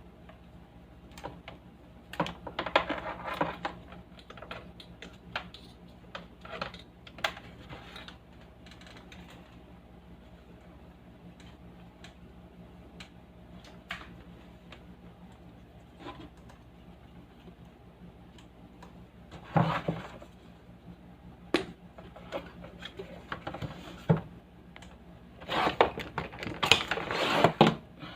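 Irregular clicks and light clattering of small hard objects being handled, with a few longer rattling bursts, over a faint steady hum.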